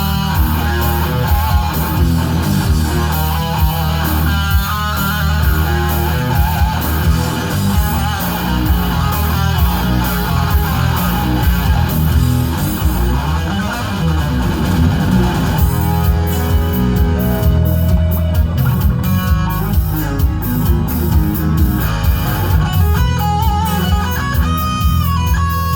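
Live instrumental shred-metal performance: fast electric guitar lead lines over bass guitar. A sharp, regular ticking beat comes in about two-thirds of the way through.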